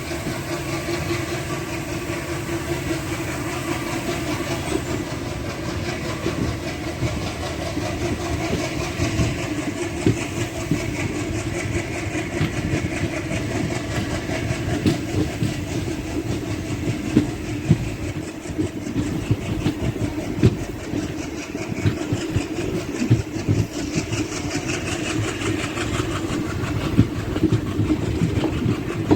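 Diesel-electric multiple-unit (DEMU) passenger train running, with a steady engine hum under the rail noise. The wheels click and clatter over the rail joints, the clatter coming more often from about ten seconds in.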